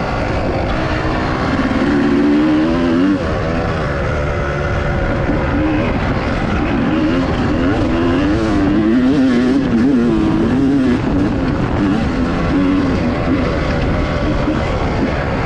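Dirt bike engine running hard on a trail, its pitch rising and falling again and again as the throttle is worked.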